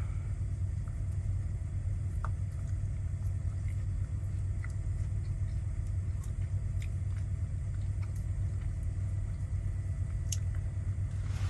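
Semi-truck engine idling, a steady low rumble heard from inside the cab, with a few faint light clicks.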